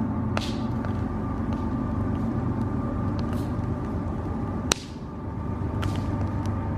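Campfire crackling, with scattered sharp pops and one loud snap nearly five seconds in, over a steady low rumble.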